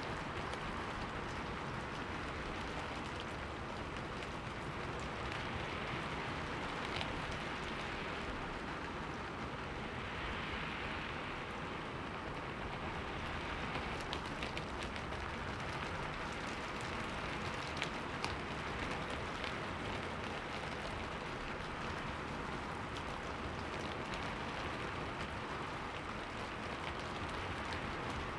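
Steady rain falling on a window, a continuous even hiss with scattered drop ticks.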